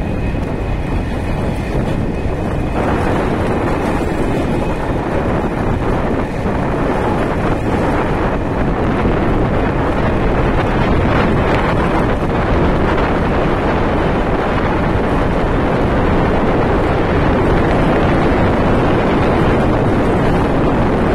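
Steady rush of wind on the microphone from riding fast beside a freight train, over the rolling rumble of its covered wagons.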